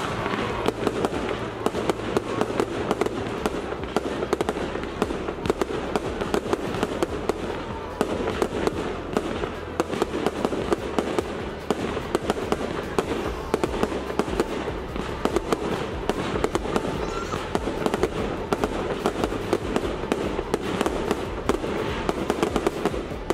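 Fireworks display: a dense, unbroken barrage of bangs and crackling from aerial shells bursting overhead.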